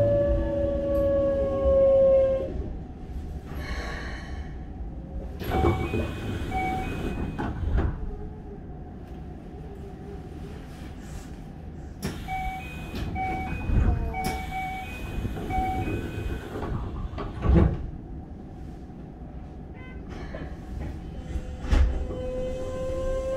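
Keikyu 600-series train heard from inside the car. Its Mitsubishi GTO-VVVF inverter whine falls in pitch and dies away in the first couple of seconds as the train brakes to a stand. During the stop, sliding doors knock and short electronic beeps sound in two runs. Near the end the inverter whine starts rising again as the train pulls away.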